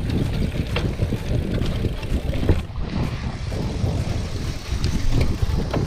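Wind buffeting the microphone of a mountain bike rider's camera while riding: a steady low rumble with scattered knocks and rattles from the bike over rough ground.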